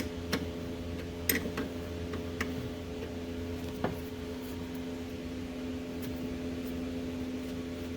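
A few light clicks from hand tools working loose the nuts on a starter solenoid's wire terminals, over a steady background hum.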